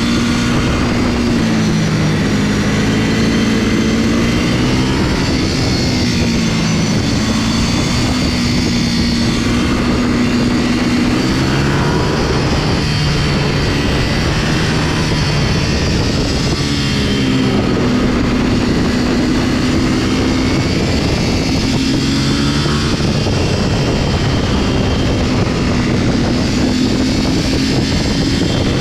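Motorcycle engine under way with wind rushing past, its pitch rising and falling with throttle and gear changes several times.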